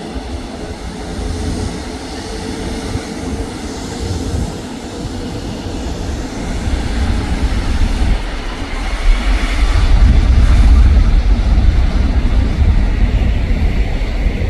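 Jet airliner flying low on landing approach, its engine rumble growing louder over the second half, with wind buffeting the microphone.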